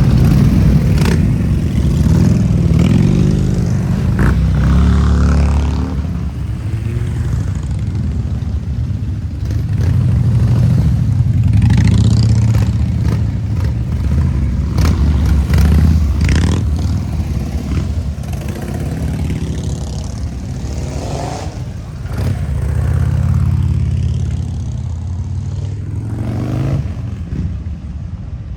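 Harley-Davidson motorcycle engines running and being revved. The loud engine sound rises and falls several times.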